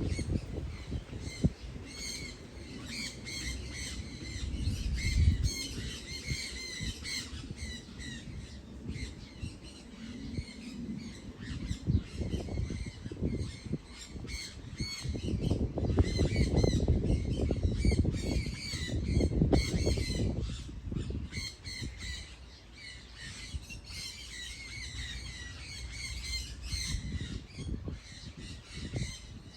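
Many birds calling over each other in a chorus of short, rapidly repeated squawks and chirps. A low rumbling noise rises under them at times.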